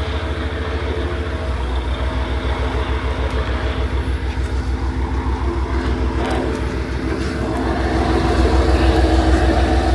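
KiHa 40 diesel railcar's engine running with a steady low beat, growing louder about eight seconds in.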